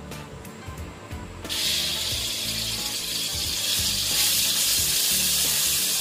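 Ground chilli spice paste for urap dropped into hot oil in a wok starts sizzling suddenly about one and a half seconds in, then keeps up a steady, loud sizzle as it is stir-fried with a metal spoon.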